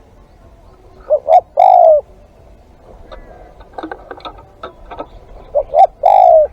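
Spotted dove cooing, two phrases, each of two short coos followed by a longer coo that drops in pitch at its end. Faint short ticks and chirps come between the phrases.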